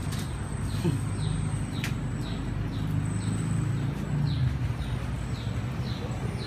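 A bird chirping repeatedly: short falling chirps, about two a second, over a steady low hum.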